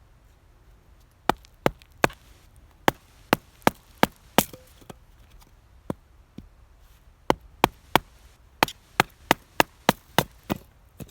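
Firewood being split with a blade, likely a nata or Mora knife: sharp wooden knocks and cracks. They come in two quick runs of about three strikes a second, with a couple of single knocks and a pause between.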